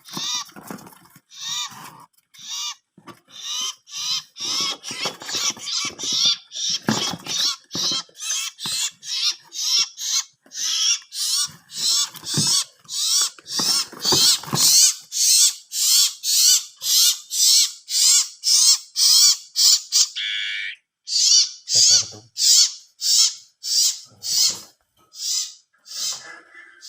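Small wild-caught songbirds calling over and over, short high wavering calls at about two to three a second, with one longer falling call about two-thirds of the way through.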